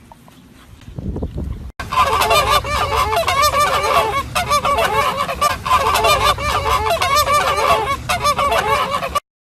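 Many birds calling over one another in a dense, loud flock chorus of short arched calls, starting abruptly about two seconds in and cutting off just before the end.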